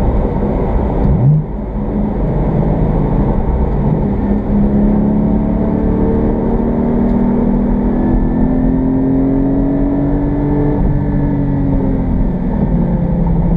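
2020 Porsche Cayman GT4's 4.0-litre flat-six heard from inside the cabin over road rumble. There is a brief dip in level about a second and a half in, then a long pull with the engine note rising steadily, easing off a couple of seconds before the end.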